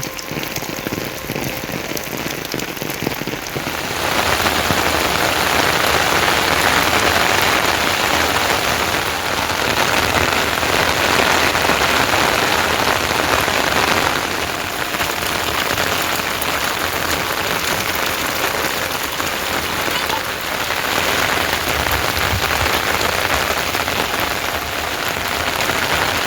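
Heavy rain falling steadily, growing louder about four seconds in.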